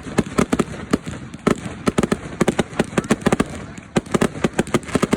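Fireworks going off in rapid succession: a dense, irregular crackle of sharp bangs, several a second.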